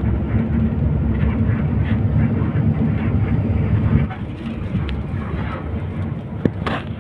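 Moving bus: a steady low engine and road drone, easing off about four seconds in, with a few short clicks and rattles near the end.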